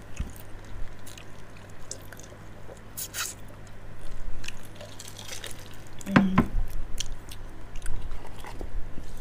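Close-miked chewing and biting on giant water bugs, with wet, squishy mouth sounds and scattered small crunches and clicks.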